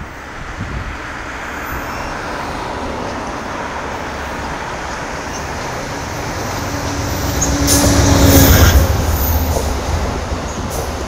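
Diesel-hauled passenger train approaching and passing underneath. A rumble builds and is loudest about eight seconds in as the locomotive goes by, with a steady engine hum, then eases as the passenger cars roll past with a few wheel clicks.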